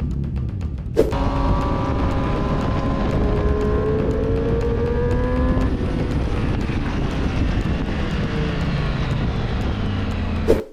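Vehicle engine running at speed, its pitch climbing over a few seconds, then dropping and fading into a lower rumble. There is a sharp click about a second in and another near the end.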